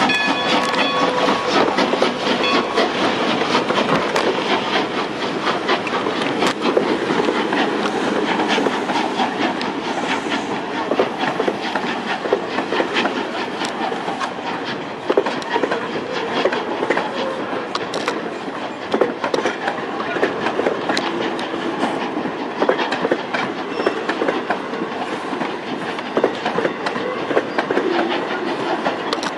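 Passenger coaches of a steam train rolling past, with steady, irregular clicking and rattling of the wheels over the rail joints. The last of a whistle note fades out in the first second.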